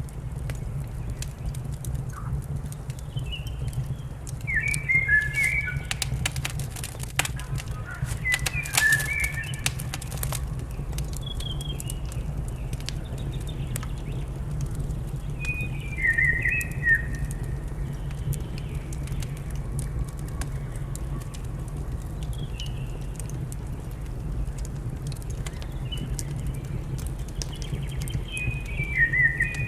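Songbird phrases of quick chirping notes stepping downward, repeating every few seconds, over the crackle and snap of a wood fire with a steady low rumble.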